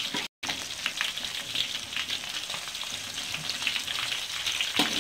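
Egg-coated shrimp deep-frying in hot oil in a wok, a steady sizzle with small clicks of a spatula against the wok as the shrimp are turned. The sound drops out for a split second just after the start.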